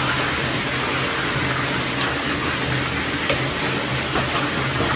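Chicken pieces sizzling in a hot pan: a steady frying hiss with a few faint pops.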